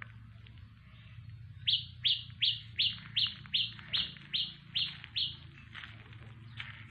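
A bird calling a quick run of about ten sharp, high chirps, roughly three a second, starting about two seconds in, with a few fainter calls after.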